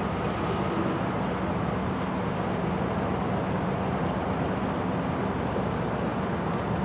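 Diesel locomotive engine running steadily, a low even hum with no change in pitch.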